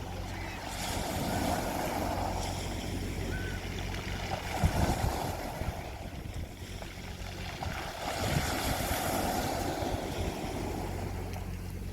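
Sea waves washing onto a beach, swelling and ebbing three times, over a steady low rumble.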